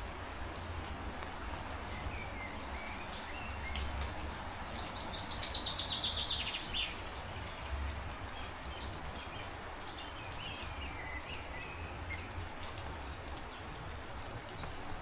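Steady heavy rain with scattered drops hitting close by, and wind rumbling on the microphone. A bird calls at intervals, loudest with a rapid trill about five to seven seconds in.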